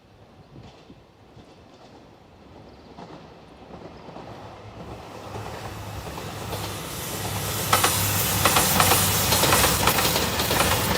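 A train approaching, growing steadily louder, then passing close by with its wheels clattering over the rail joints from about three-quarters of the way in.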